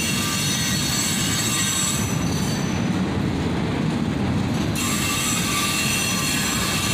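Freight cars of a slow-moving freight train rolling past with a steady low rumble, while the steel wheels give off thin high squeals. The squeal fades about two seconds in and comes back about five seconds in.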